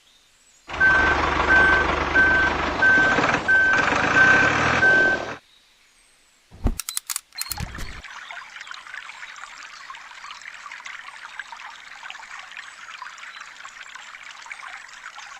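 A truck engine running with reversing beeps repeating about every half second, cutting off suddenly after about five seconds. A few sharp clicks follow, then a steady trickle of water pouring into the tanker.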